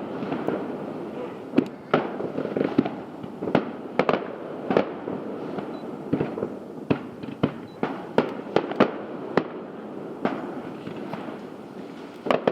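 Fireworks display: a rapid, irregular string of sharp aerial shell bursts, more than a dozen, over a continuous rumble of echoing booms.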